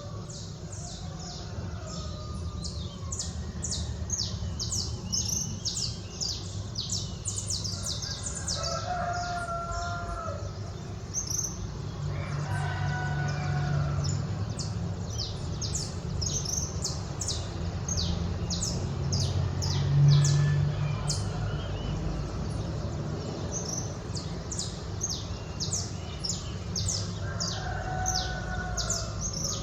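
Many small birds chirping in quick, overlapping short notes through the whole stretch, with a few longer wavering calls at a lower pitch about a third of the way in, near the middle and near the end. Under them runs a steady low hum that swells briefly twice.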